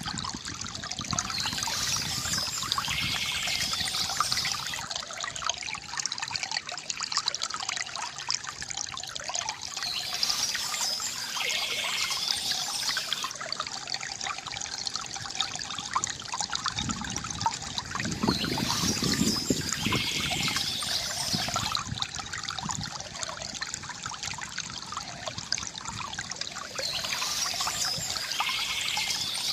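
Small stream trickling and splashing steadily over stones.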